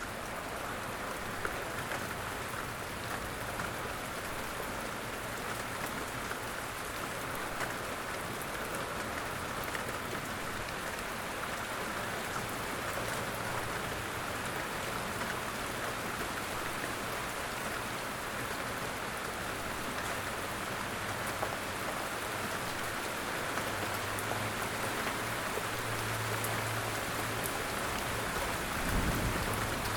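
Light rain falling steadily in a forest, a dense patter of drops on leaves and surfaces. A faint low thump near the end.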